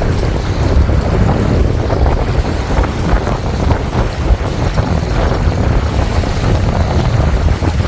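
Strong wind buffeting the microphone: a loud, uneven low rumble that keeps gusting.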